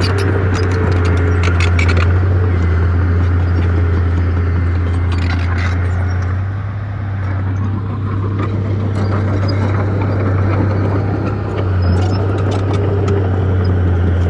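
Bulldozer's diesel engine running under steady load, a deep constant hum that eases briefly twice, with clusters of metallic clanks from the machine at work.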